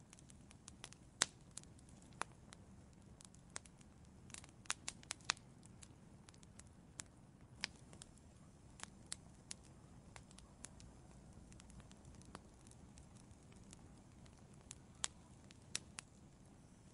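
Wood fire in an outdoor fireplace crackling: irregular sharp pops and snaps over a faint, steady low rumble. There is one loud pop about a second in and a quick cluster of pops around five seconds in.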